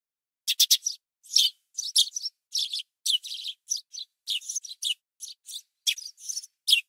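Small birds chirping: a quick run of short, high chirps, one after another, starting about half a second in.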